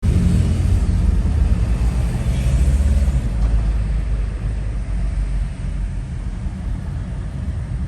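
Low, fluctuating rumble of wind and road noise on the microphone of a moving motorbike carrying two riders. It cuts in abruptly at the start.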